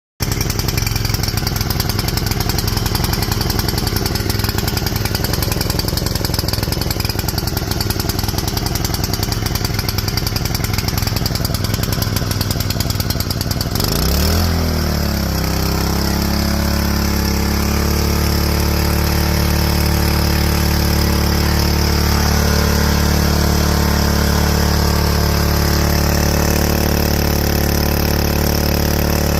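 Small gasoline engine of a pressure washer running, fitted with a new carburettor, fuel tank and spark arrestor. About halfway through its pitch swings and dips, then it settles into a smoother, steady run.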